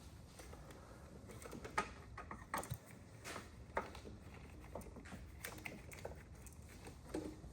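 Faint, scattered metallic clicks and taps of hand tools, a wrench working on the brake booster's mounting bolts at the firewall.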